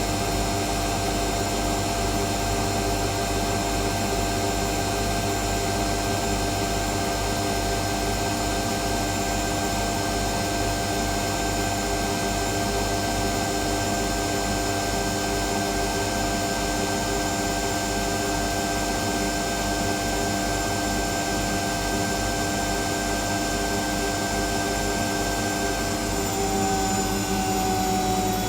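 Whirlpool Indiana 1400 front-loading washing machine running steadily in a high-speed spin, its motor giving a whine of several steady tones over a rushing hum. Near the end some of the tones dip slightly lower as the drum speed changes.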